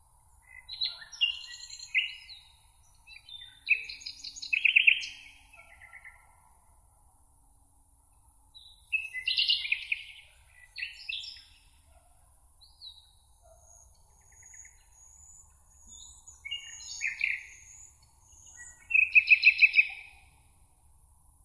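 Songbirds singing in several separate phrases of quick, high chirps and trills, with faint steady background hiss.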